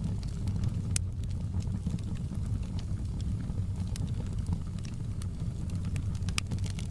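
Wood fire in a fireplace crackling: scattered sharp pops and snaps over a steady low rumble, with louder pops about a second in and near the end.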